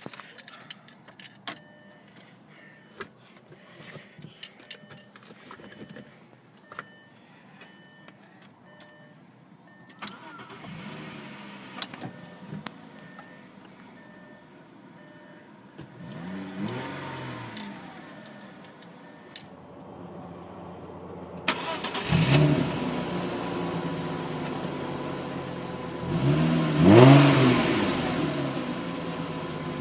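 1999 Audi A4 2.8 litre V6 started with its engine belt off: for the first ten seconds warning beeps and clicks sound as the ignition is switched on. Then the engine is cranked and catches about 21 seconds in, and it is revved up and down a few times.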